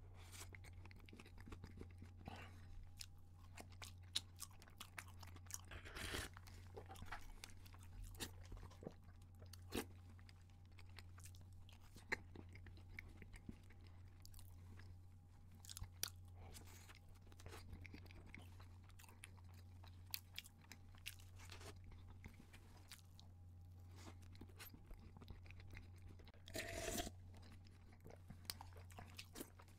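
Close-miked chewing of a full mouthful of cake with crunchy cookie crumbs: irregular sharp crunches and wet mouth clicks, with one louder, longer mouth sound near the end.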